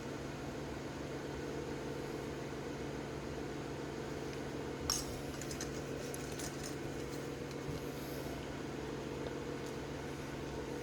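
A short clatter of light plastic clicks about five seconds in, as model kit parts are handled, over a steady mechanical hum in the room.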